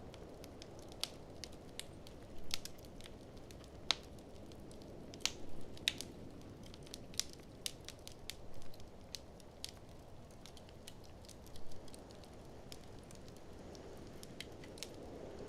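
Wood fire in a fireplace crackling, with irregular sharp snaps and a few louder pops, over a steady low rush of noise.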